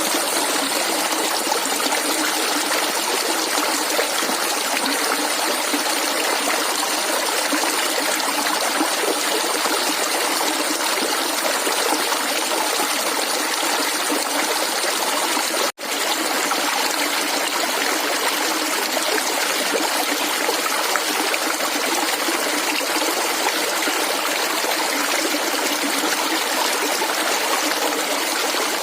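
Clear flowing water gurgling and trickling steadily. The sound cuts out for an instant about halfway through, then carries on as before.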